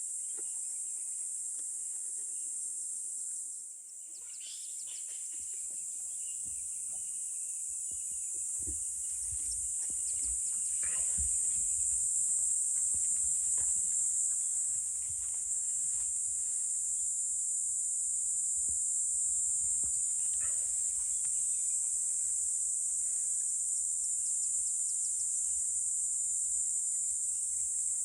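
Steady high-pitched chorus of insects such as crickets or cicadas, with a few short bird calls over it and a low rumble underneath from about eight seconds in.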